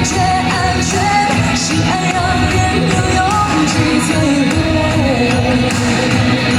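A female singer performing a Mandarin pop ballad live, holding long notes that slide between pitches, over a backing accompaniment with drums and cymbals.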